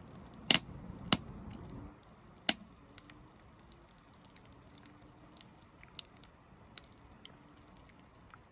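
Three loud sharp snaps in the first few seconds, then fainter scattered ticks over a low hiss.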